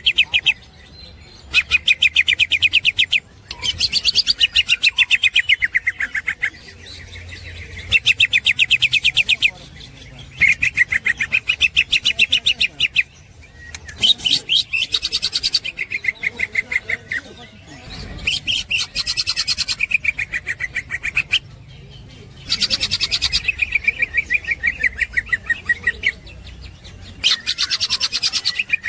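Green leafbird (cucak hijau) singing its 'ngekek' song: repeated bursts of rapid, high chattering notes, each burst a couple of seconds long, with short pauses between them.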